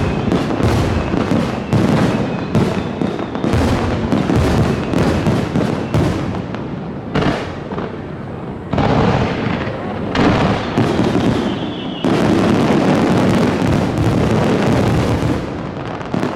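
Fireworks display: many shells bursting in quick succession, the bangs crowding together, with a denser, more continuous burst of crackle and booms in the second half.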